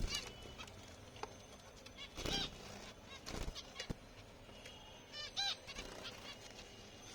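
Finches giving short nasal, honk-like calls in three brief bouts, with a few faint clicks between them.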